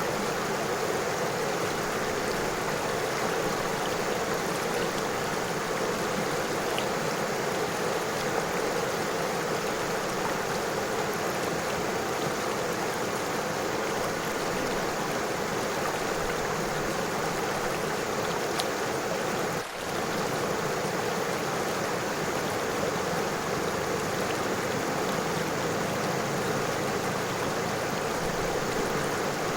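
A river flowing over stones, a steady rush of water that dips briefly about two-thirds of the way through.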